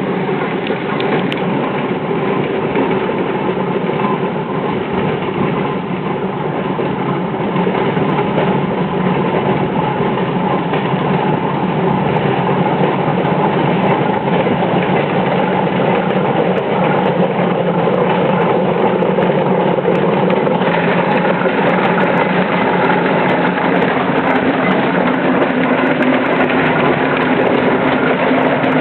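Steam tractor running along the road, a steady, dense mechanical clatter that grows gradually louder over the second half.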